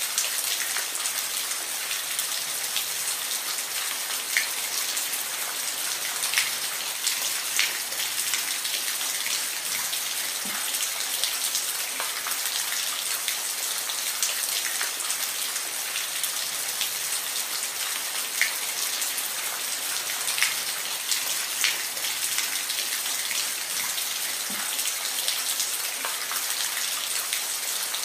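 Steady rain, a dense high hiss with scattered, distinct drops pattering on a surface.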